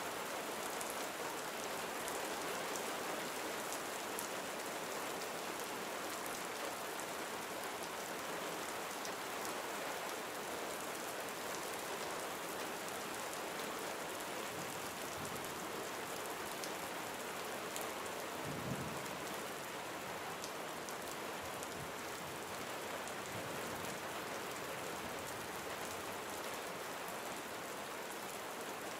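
Steady gentle rain falling on surfaces, with fine individual drop ticks. A brief low rumble comes a little past the middle.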